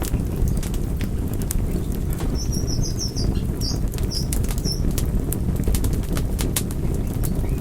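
Wood fire crackling: frequent sharp pops and snaps over a steady low rumble. A quick run of high chirps sounds a few seconds in.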